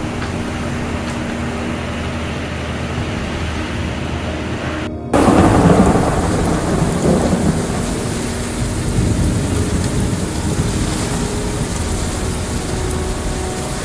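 Thunderstorm: a loud rumble of thunder breaks in about five seconds in and fades over a couple of seconds, with heavy rain hissing steadily after it. Before it there is a steady rushing noise with a low hum.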